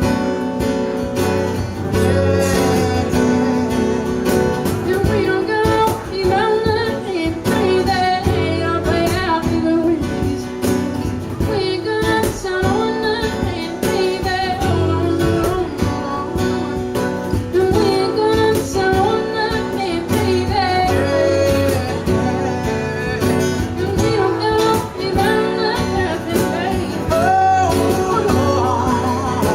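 Live acoustic country song: singing over strummed acoustic guitar, with a cajon keeping the beat.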